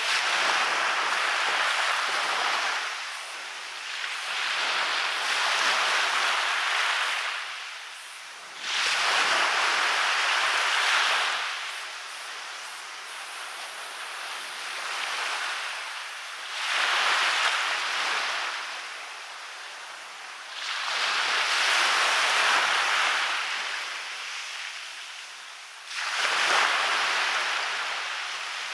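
Sea waves breaking and washing up onto a beach, one after another: about six surges of hissing surf, each rising, sometimes abruptly, then draining away.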